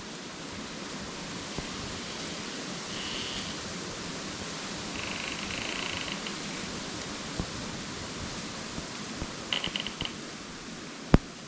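Wind blowing through dense forest canopy, a steady rush of rustling leaves. A few short, high creaks come through it from branches rubbing against each other, and there is one sharp click near the end.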